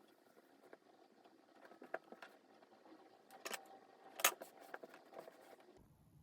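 Small clicks and light clinks of objects being handled, irregular and faint, the sharpest about three and a half and four seconds in. Near the end it cuts to a steady low hum.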